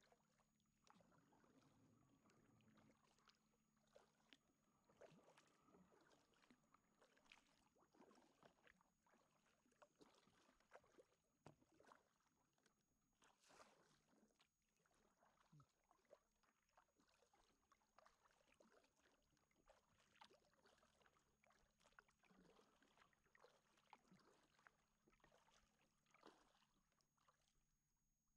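Near silence with faint, irregular knocks and clicks of kayak paddling, under a thin steady high whine.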